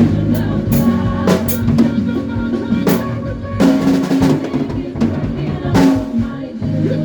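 Band rehearsing, with a drum kit playing snare and cymbal hits and fills over sustained bass and other pitched instruments.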